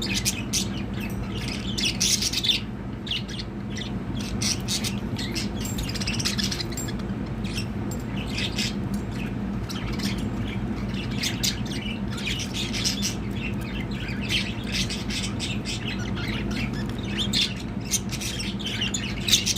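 Budgerigars chattering, with a rapid run of short chirps and squawks that continues throughout, over a steady low hum.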